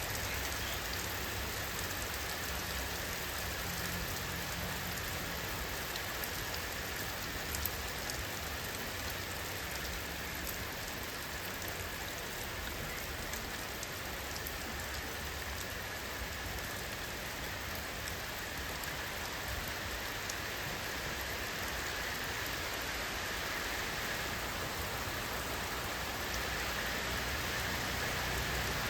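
Steady rain falling on a surface: an even, unbroken hiss with a few faint single drop ticks.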